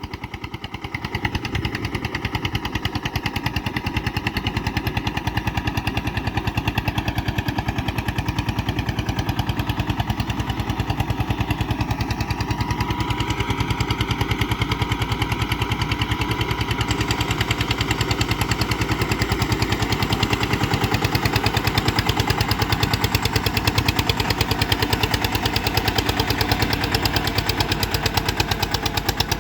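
Eicher tractor's diesel engine running under load, pulling a fully loaded trolley, with a fast, even train of sharp exhaust beats. It picks up about a second in, then runs steadily.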